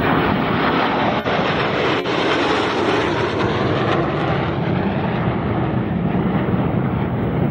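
MiG-17 jet fighters passing in afterburner with a loud, steady jet roar that swells and then eases as they go by.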